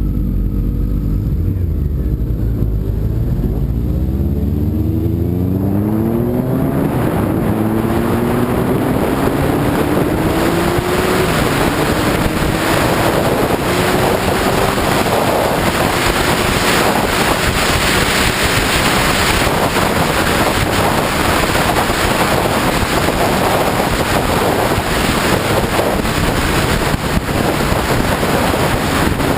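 Sport bike engine accelerating through several gears, its pitch climbing in steps and then in one long rise. From about halfway in, loud wind rush over the microphone at speed drowns it out.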